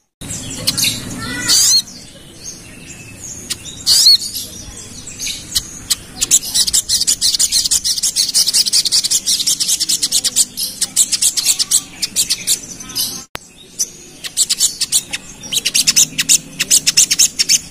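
Crimson sunbird (sogon) singing: a few separate gliding high notes, then two long runs of rapid, closely packed high chirps and trills, the 'ngerap' song used as a lure to provoke other sogon.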